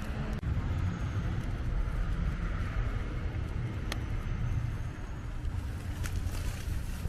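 A car driving past on a snow-covered street: tyre hiss that swells through the middle and fades, over a steady low rumble, with a few faint ticks.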